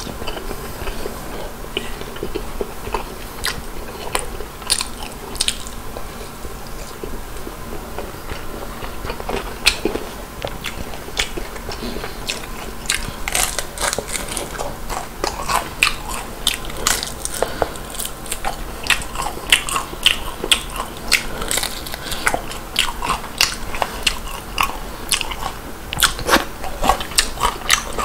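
Close-miked chewing and crunching of crispy fried chicken and french fries, with wet mouth clicks and finger-sucking sounds. The crunching grows denser in the second half.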